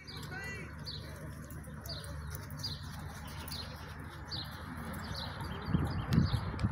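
A small bird repeating a short high chirp about once a second over a steady low rumble. Near the end, louder irregular low thuds come in.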